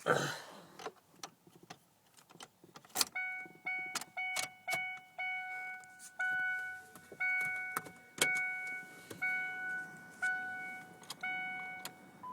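Keys jangling and clicking, then the 2003 Ford Explorer's dashboard warning chime dinging over and over, roughly once or twice a second, with the key in the ignition and the engine not yet started.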